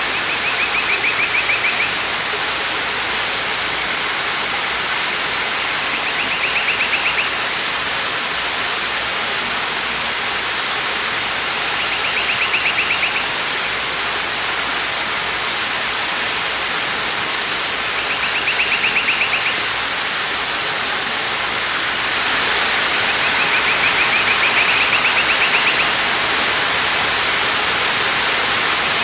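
Waterfall rushing in a steady, loud hiss of falling water, a little louder about three-quarters of the way through. A bird's short, high trill cuts through it about every six seconds, five times in all.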